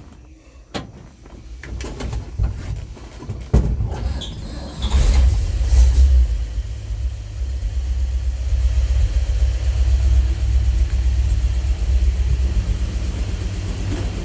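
A few clicks and knocks, then the 1956 Chevrolet pickup's six-cylinder engine starts about four seconds in and idles steadily and low-pitched.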